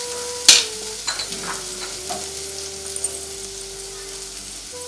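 Dried-fish chutney frying and sizzling in a wok on a gas stove as it finishes cooking. A sharp knock of a utensil comes about half a second in, followed by a few lighter taps.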